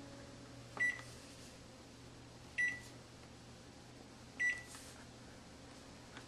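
Microwave oven keypad beeping: three short high beeps, each with a button click, about two seconds apart as the oven is set, over a faint low hum.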